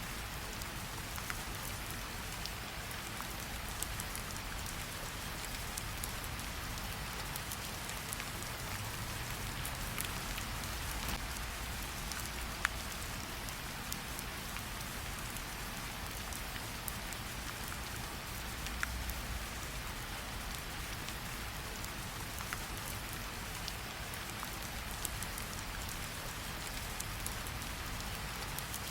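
Steady rain falling, mixed with a campfire that gives off a sharp crackle or pop every few seconds.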